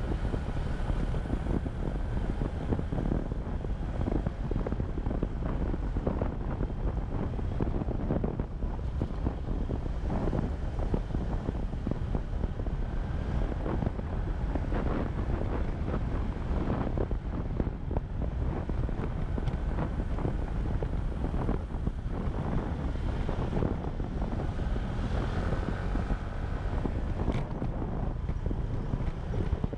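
Motorcycle riding at speed: heavy wind rushing over the microphone, with the engine running underneath.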